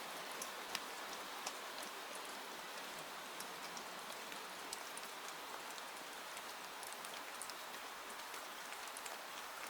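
Steady rain hiss with scattered sharp ticks spread irregularly throughout.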